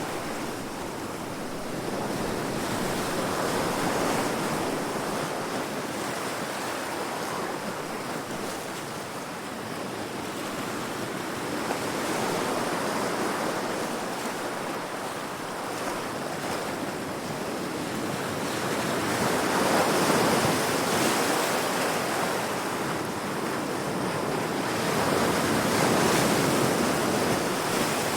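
Heavy ocean waves breaking against rocks, a continuous surging wash that swells and ebbs every few seconds, with the loudest surges about twenty and twenty-six seconds in.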